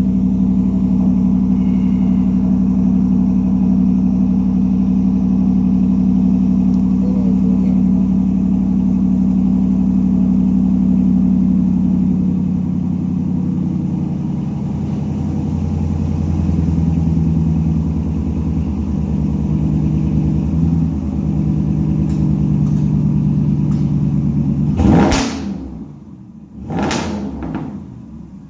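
Pickup truck's Borla S-Type aftermarket exhaust rumbling at a steady idle, its note shifting and wavering through the middle. Near the end come three loud, brief rushes of noise.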